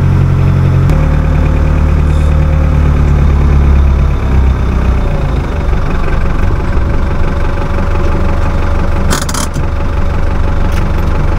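Tractor engine running steadily close by, its note shifting about a second in and its low rumble easing off around four to five seconds in. A short hiss-like noise about nine seconds in.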